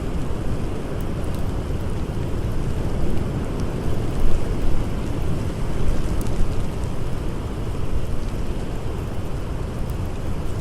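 Steady blizzard wind, a dense rushing noise heaviest in the low end, with faint scattered crackles of a campfire.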